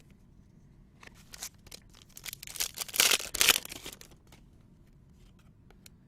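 Trading-card pack wrapper being torn open and crinkled: a run of tearing and rustling from about a second in, loudest near the middle, then quiet.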